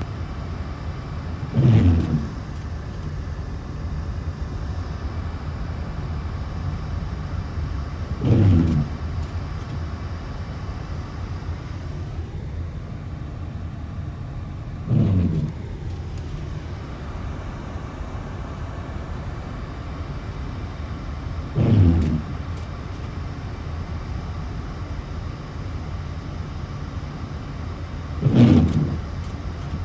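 Steady low rumble of a vehicle, with a short sound falling in pitch that repeats at even intervals about every six and a half seconds, five times.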